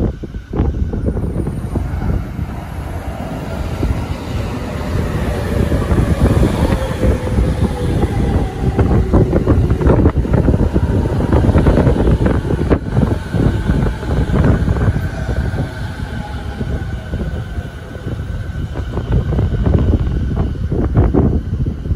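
JR 209 series electric commuter train pulling into a station and braking to a stop, with wheels clacking over rail joints and a whine that falls steadily in pitch as the train slows.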